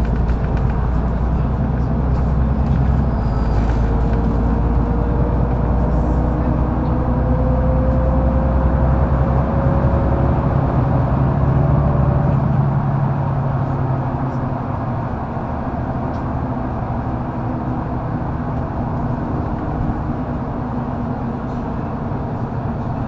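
Inside a Mercedes-Benz O530 Citaro facelift articulated bus under way: the diesel drivetrain pulls with a deep rumble and a faint whine that rises slowly in pitch, then eases off about 13 seconds in and the bus runs on more quietly.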